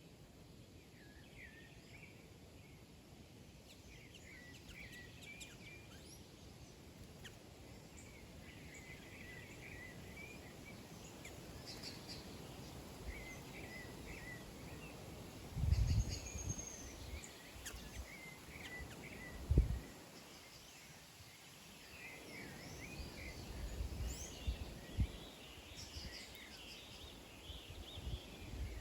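Many small birds chirping in short, overlapping calls, with two low thumps about halfway through.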